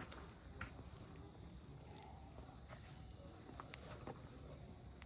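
Faint wood campfire crackling, with a few sharp pops from the burning firewood. An insect chirps in short runs of quick, evenly spaced pulses.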